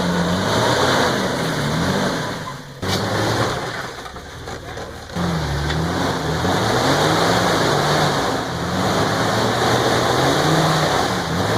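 A lifted off-road Jeep's engine revving up and down again and again as it works to climb over an obstacle. It eases off for about two seconds near the three-second mark, then revs up and down again.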